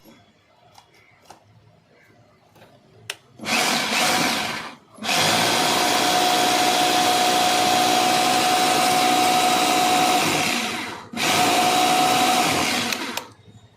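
2-20 hammer drill, its bearing newly replaced, running in three bursts: a short run about three and a half seconds in, a long run of about six seconds, then a two-second run near the end. Each run is a steady motor hum with a held whine.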